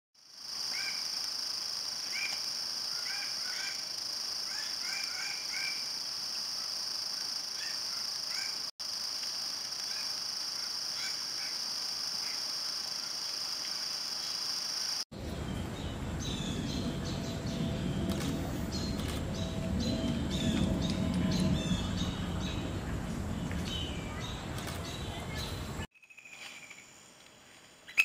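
Forest birds calling in several edited takes: short repeated chirps over a steady high-pitched drone, then a busier stretch of quick high chirps and clicks over a low rumble.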